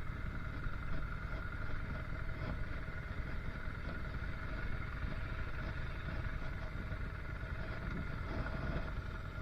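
An engine running at a steady speed, a constant low rumble with a steady whine over it and no change in pitch.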